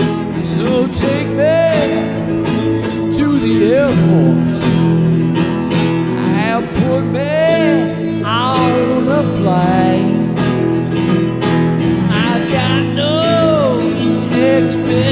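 Blues band playing live: guitar chords held under a lead line of swooping, bent notes.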